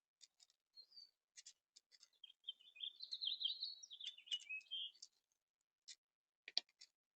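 A small songbird sings a rapid, jumbled warble lasting about two and a half seconds, with short sharp clicks scattered before and after it and a sharper tap near the end.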